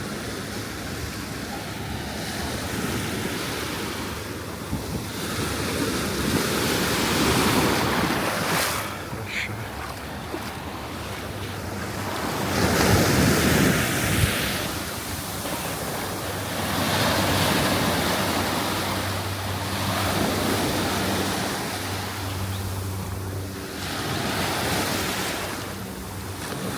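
Ocean surf breaking and washing up on a sandy beach, swelling and fading every few seconds, with wind on the microphone. A low steady hum comes in about halfway through.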